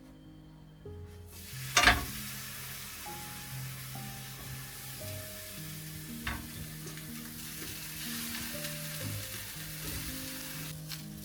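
Food sizzling as it fries in a hot pan, the hiss starting a second or so in, with a sharp clack near the start and a lighter one midway. Soft background music plays underneath.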